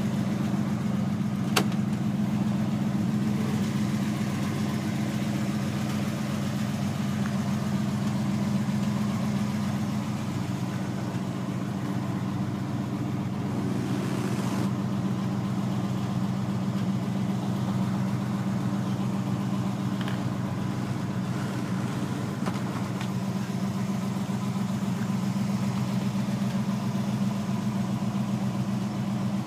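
Custom 1954 Chevrolet's engine idling steadily, with one sharp click about a second and a half in.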